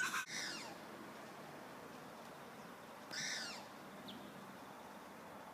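Birds calling: a call at the start, a louder arching call about three seconds in, and a short chirp a second after it, over faint steady hiss.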